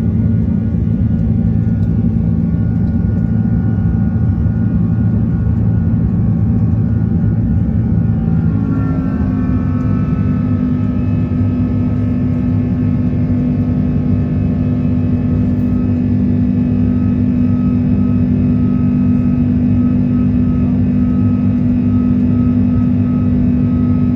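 Airbus A330-300's Rolls-Royce Trent 700 turbofans heard from inside the cabin on takeoff: a steady, loud roar with a hum of engine tones. About a third of the way through, the engine tones shift in pitch.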